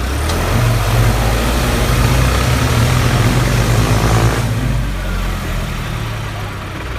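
Tractor's diesel engine raised to higher revs for about four seconds while working the trolley's tipping hydraulics, then dropping back to idle.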